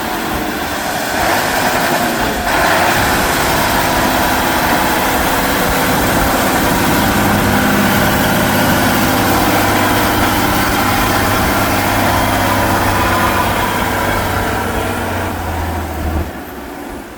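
Heavy off-road truck engine running steadily. It grows louder about two seconds in and fades near the end.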